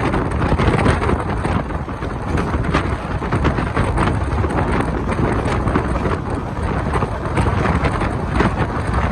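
Passenger train running at speed, heard from outside the coach: steady rattle of wheels on the track with heavy wind buffeting the microphone.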